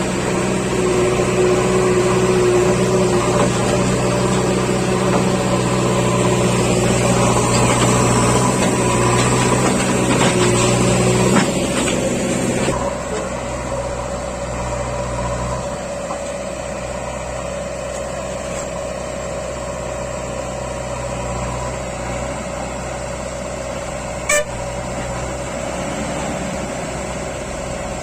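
Heavy diesel vehicle engine running steadily, louder for the first half and dropping to a lower, steadier level about halfway through. A single sharp click comes near the end.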